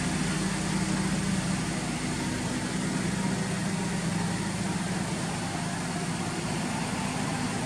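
Honda Accord Euro R's K20A 2.0-litre four-cylinder engine idling steadily through a Mugen titanium exhaust.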